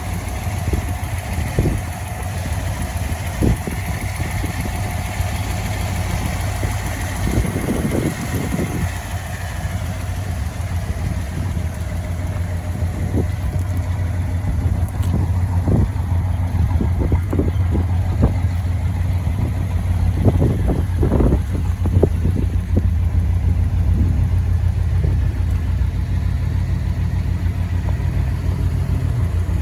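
1956 Ford Thunderbird's 312 Y-block V8 idling steadily, with scattered short thumps over the low engine note.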